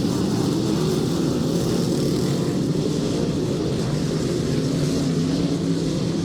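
Several dirt-track race car engines running together on the oval: a steady, loud engine sound whose pitch wavers slightly as the cars circulate.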